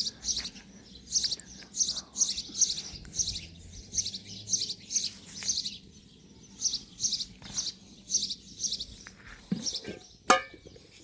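Small birds chirping over and over, short high chirps in quick clusters. A single sharp knock sounds near the end.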